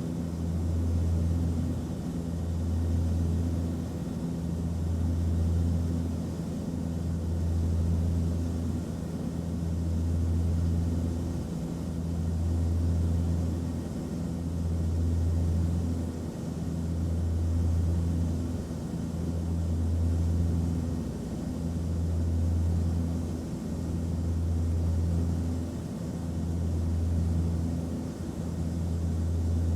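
Airliner cabin noise: a steady low engine drone over a light hiss, swelling and dipping about every two seconds.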